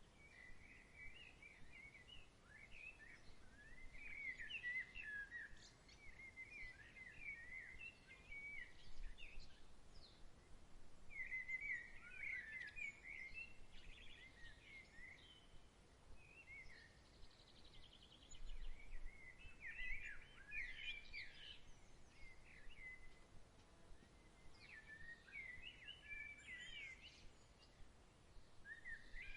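Songbirds singing in chirping phrases of a few seconds each, with short pauses between, over a faint steady background hush.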